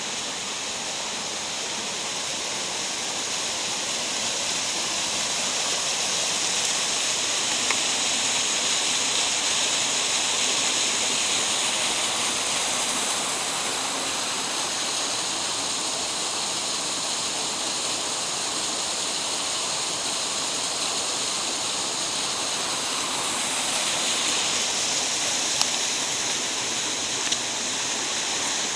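Rushing water of a mountain gorge stream, a steady hiss that swells a little midway, with a couple of faint clicks near the end.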